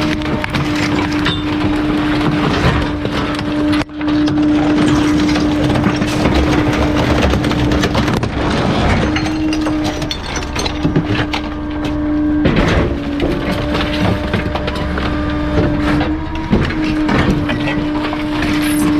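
Bulky-waste truck's compactor crushing a load, with cracking and crunching over a steady hydraulic hum that breaks off briefly every few seconds.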